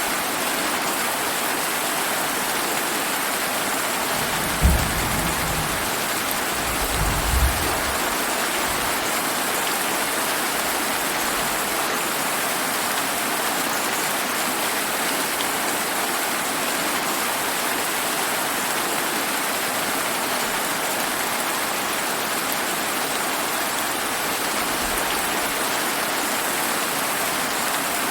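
Steady summer rain falling as an even hiss, with two short low rumbles of thunder about five and seven seconds in.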